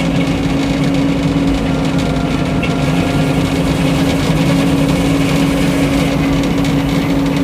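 The engine driving a Frick sawmill runs steadily, with the saw spinning free between cuts. The high hiss of the blade cutting wood stops right at the start.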